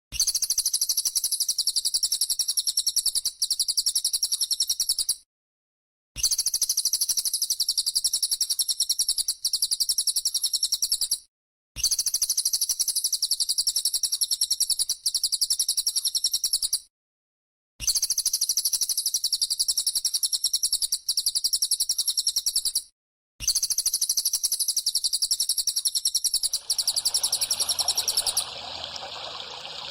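Looped songbird-training recording: a high, rapidly pulsing trill in bursts of about five seconds, separated by short silences, five times over. Near the end, trickling water comes in and the trill stops.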